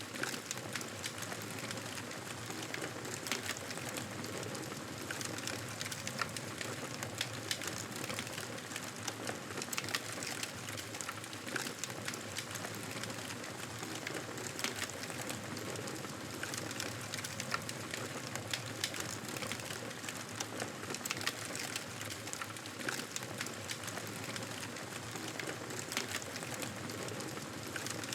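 Wood fire crackling in a fireplace: a steady hiss with frequent small sharp pops and snaps.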